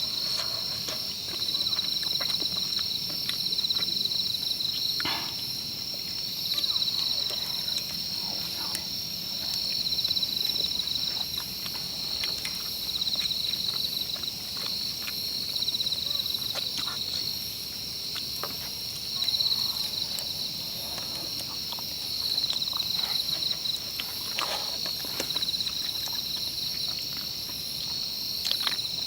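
Insects trilling in a steady, high-pitched chorus, pulsing without a break, with scattered faint clicks and knocks over it.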